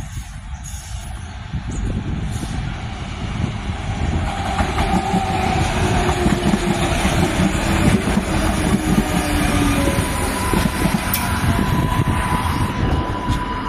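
3000/3100 class diesel railcars running past at close range: a continuous rumble of engine and wheels on the rails, with an engine drone that falls in pitch about halfway through and a steady whine in the last few seconds.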